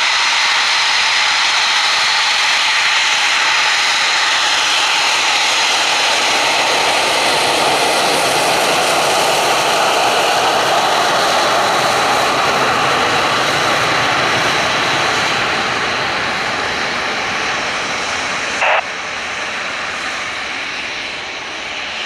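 Eurofighter Typhoon jet engines running with a loud, steady roar and a faint high whine, which fades off over the last few seconds. Near the end there is one short, sharp burst of sound.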